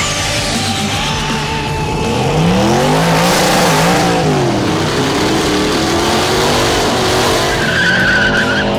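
Drag cars doing burnouts: engines revving up and down while the rear tyres spin and squeal, with a music track underneath.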